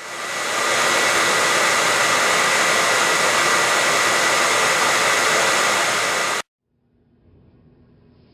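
Hair dryer blowing: a steady rushing hiss with a thin high whine, swelling up over the first second, then stopping suddenly about six and a half seconds in.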